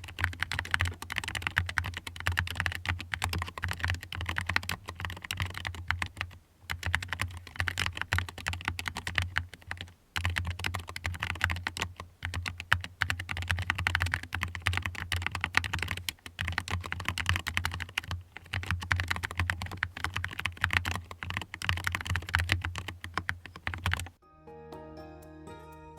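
Fast, continuous typing on a compact mechanical keyboard, keys clacking with a few brief pauses. About two seconds before the end the typing stops and soft background music takes over.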